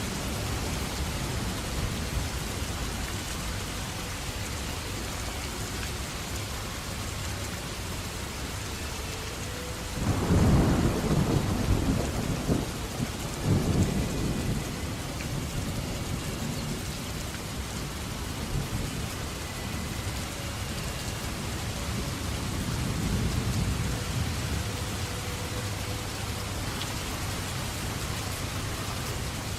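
Steady heavy rain falling, with a crack of thunder about a third of the way in that rolls on for a few seconds, peaking again briefly, and a fainter rumble later on.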